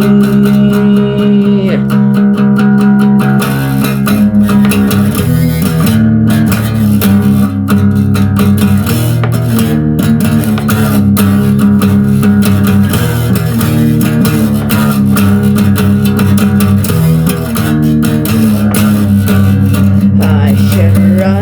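Instrumental break in a song, with guitar and bass guitar playing and no singing.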